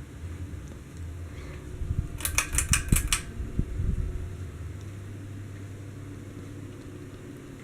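Harbor Breeze Centreville ceiling fan running with a steady low hum. About two seconds in comes a quick run of six or seven sharp clicks with a few low thumps around them.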